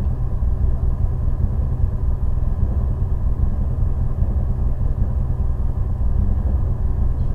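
Mitsubishi Lancer Evolution IX rally car's turbocharged four-cylinder engine idling steadily, heard from inside the cabin.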